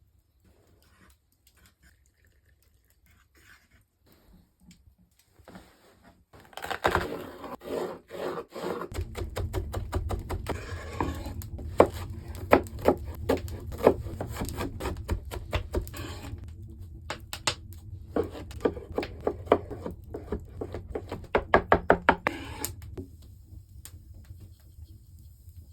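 Irregular knocking and tapping, faint at first, then many sharp knocks in quick runs from about six seconds in, fading out near the end. A low steady hum runs underneath from about nine seconds in.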